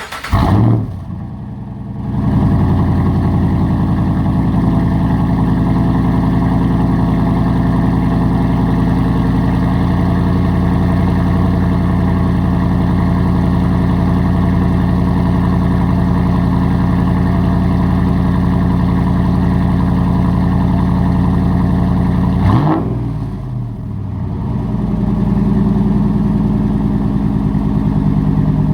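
Straight-piped Hemi V8 in a fourth-generation Ram pickup, starting with a quick flare, then running at a steady, loud idle. About 22 seconds in the engine note sweeps briefly and drops to a quieter, lower idle before settling steady again.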